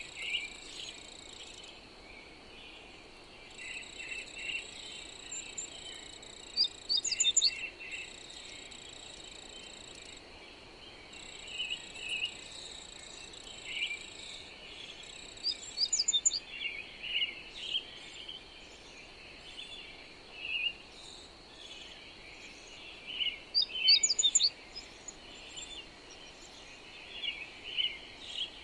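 Small birds chirping and calling in short, scattered phrases over a steady high-pitched tone that breaks off and resumes several times. Beneath them runs a soft, even hiss of wind.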